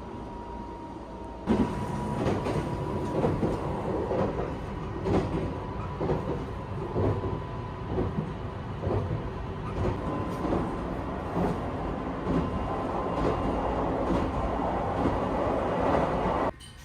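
Train running on rails, its wheels clacking over rail joints in a steady rhythm about once or twice a second, with a faint steady whine. The sound comes in abruptly about a second and a half in and cuts off near the end.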